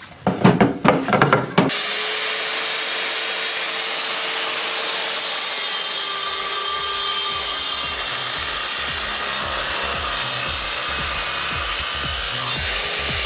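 Metabo KGS 216 M compound miter saw, a 1500 W machine, running and cutting through oak: a steady, even sawing noise that starts abruptly a couple of seconds in.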